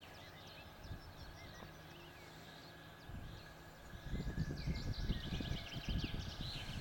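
Birds singing and chirping. About four seconds in, a low, uneven rumble rises beneath them.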